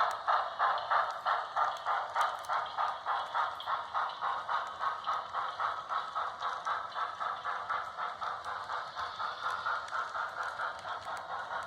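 Sound-equipped HO-scale Pennsylvania Railroad K4s steam locomotive (Broadway Limited Paragon 3) chuffing steadily through its small onboard speaker, about four to five chuffs a second, slowly fading.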